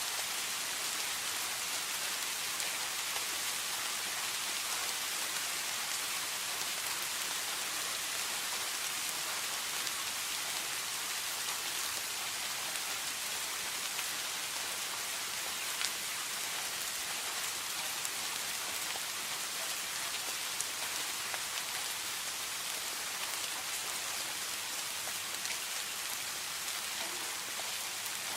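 Steady rain falling on a surface: an even hiss with scattered drop ticks and a few slightly louder drips.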